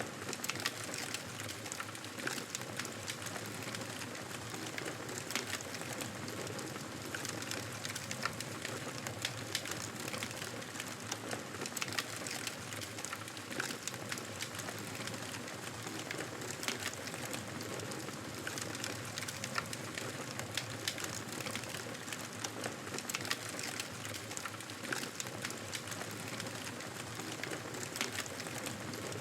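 Campfire burning, wood crackling with frequent small pops and snaps over a steady hiss.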